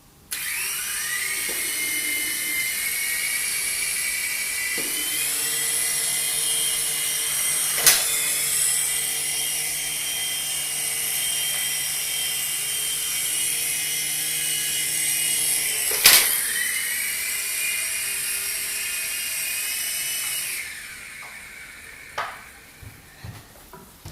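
Small electric toy remote-control helicopter spinning up to a steady, high-pitched whine of motor and rotors. It gives two sharp knocks about 8 and 16 s in; the whine dips and recovers after the second. It shuts off about 20 seconds in, followed by a few light knocks.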